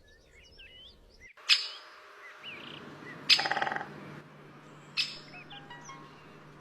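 Birds chirping and twittering in many short, gliding calls, as the intro of a film song. Three sharp, loud accents fall at even spacing, each dying away, and a low steady drone sets in about two seconds in.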